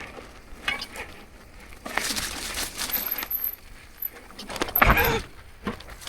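Marin Alpine Trail 7 mountain bike descending a rough dirt trail: chain and parts rattling and clinking over the bumps, tyres rushing over the ground, with a heavy thump about five seconds in.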